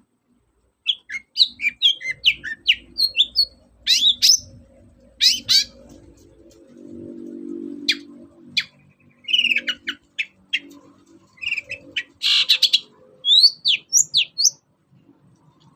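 Long-tailed shrike (cendet) singing a fast, varied run of short chirps and quick whistled sweeps in irregular bursts, with a short noisy burst about twelve seconds in.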